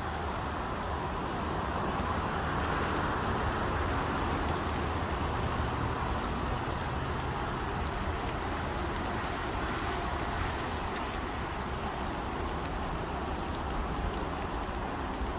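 Road traffic: a steady low rumble and hiss, swelling for a few seconds about two seconds in as a vehicle passes.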